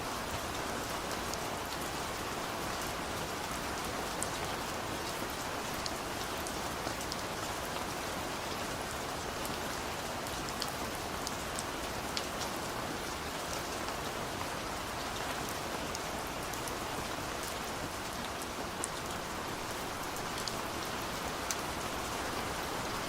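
Steady rain falling, an even hiss of drops with scattered individual drop ticks.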